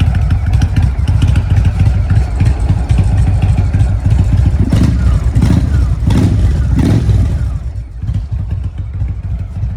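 2017 Indian Roadmaster's Thunder Stroke 111 V-twin with an upgraded intake and exhaust, running at a loud idle. About five seconds in it is revved four times in quick succession, then settles to a quieter idle near the end.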